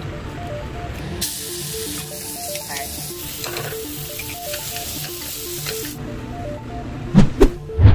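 Seasoned lobster meat frying in butter in a hot pan, a dense sizzle that starts suddenly about a second in and stops about six seconds in. Near the end, a couple of sharp loud knocks.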